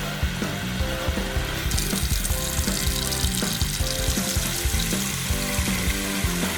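Light cartoon background music, joined about two seconds in by a steady hiss of water running from a tap: cold water being run to cool a burn.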